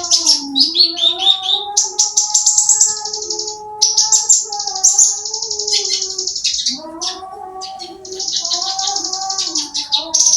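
Javan bush lark (branjangan) singing a fast, unbroken high-pitched song of rapid trills and chirps, with brief pauses. A lower, wavering tone runs beneath much of it.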